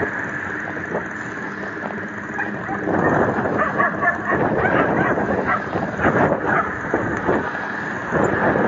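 Wind buffeting the microphone over road traffic noise during a bicycle ride, with a motor vehicle engine running close by for the first few seconds.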